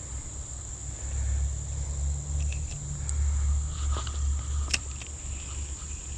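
A steady, high-pitched insect drone runs throughout. Under it is a low rumble, and a few light clicks come in the second half.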